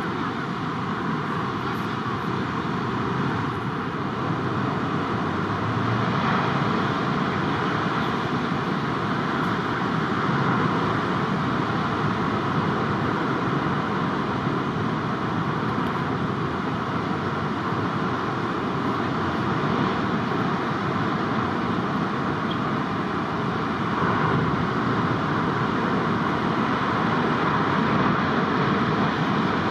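Steady roar of large ocean surf breaking, swelling a little louder several times.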